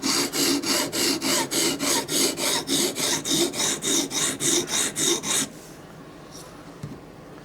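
Sharpening stone rubbed back and forth along the steel edge of a tanto knife blade on a guided sharpener: quick rasping strokes, about three a second, that stop suddenly about five and a half seconds in.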